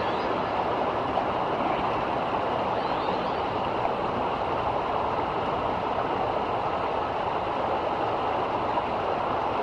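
River water rushing, a steady even flow with no breaks.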